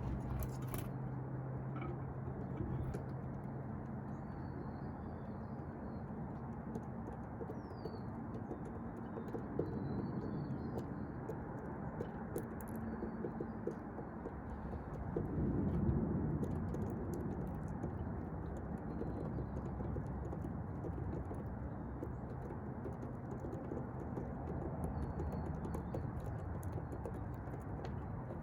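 Faint bird chirps, short and scattered, over a steady background rumble, with many small clicks.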